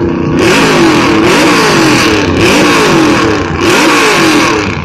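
Monster truck engine revved hard in quick repeated blips, its pitch rising and falling about twice a second, with a loud rushing noise over it.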